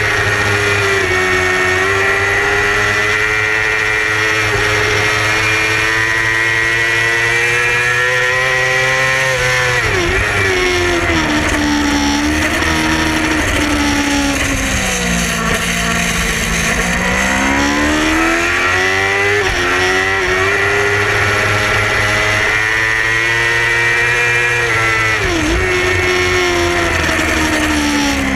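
Yamaha R6 600 cc inline-four racing engine at high revs. The pitch drops sharply about ten seconds in and sinks low around the middle as the bike slows for a corner, then climbs back as it accelerates out, and falls again near the end.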